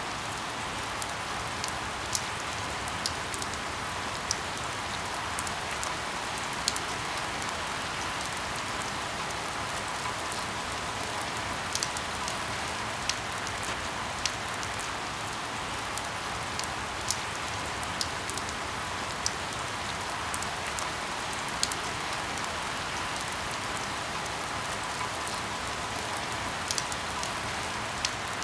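Steady rain with scattered sharp pops of crackling firewood every second or so.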